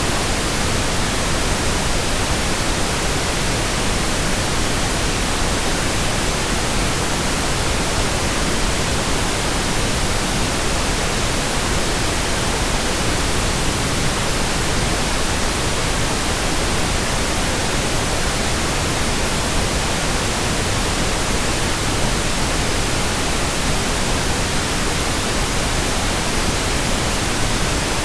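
Steady synthetic white noise: an even, unbroken hiss spread across the whole range from deep to high.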